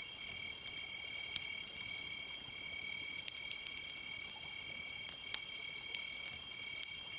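Night insects, crickets, chirring steadily in several high pitches, with scattered sharp crackles from the campfire.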